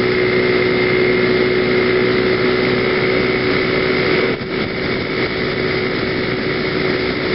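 PGO BuBu 125cc scooter engine running steadily on the move, with road and wind noise over the helmet camera. The sound dips briefly about four seconds in.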